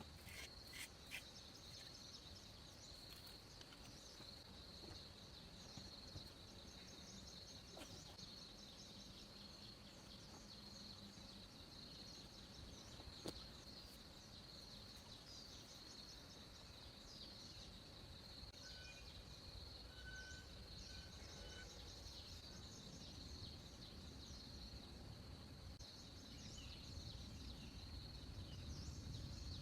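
Faint, steady high-pitched insect chirring, a fast continuous trill, with a few short bird whistles in the middle and occasional soft clicks. A low rumble builds near the end.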